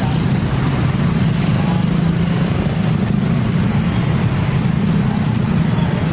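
Steady, loud low hum of vehicle engines over a constant noise of traffic.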